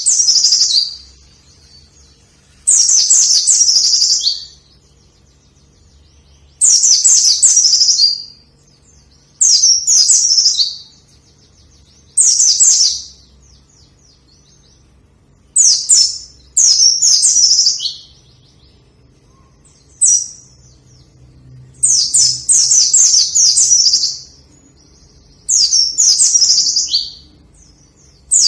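White-eye (pleci) singing vigorously: a string of short, fast, high-pitched chattering phrases, each about a second long, repeated every two to three seconds.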